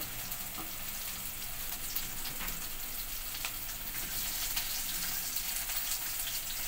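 Sliced onions frying in hot oil in a pot, a steady sizzle with many small crackling pops as they finish browning.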